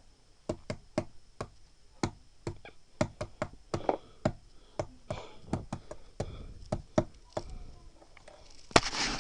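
Irregular sharp knocks and taps, a few a second, from hard objects being handled or struck, with a brief louder rustling noise near the end.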